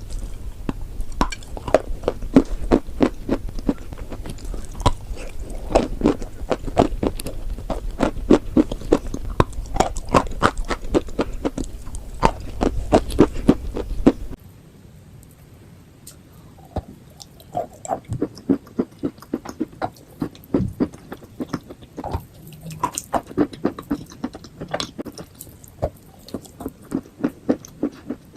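Close-miked chewing of crunchy chalk and clay: a rapid, dense run of crunches over a low background hum. About halfway through the hum drops out and the crunches come sparser and more irregular.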